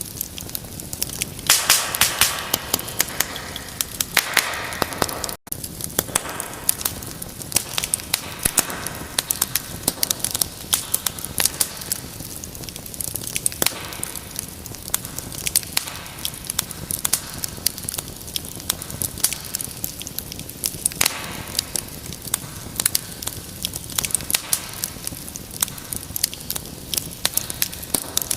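Wood fire crackling, with dense sharp pops and snaps over a steady hiss. The sound cuts out for an instant about five seconds in.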